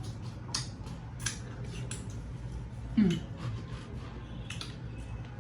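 Eating sounds from a fufu-and-oha-soup meal: scattered short wet clicks and smacks of mouths and fingers at work. About three seconds in comes a brief falling vocal sound, the loudest moment, over a steady low hum.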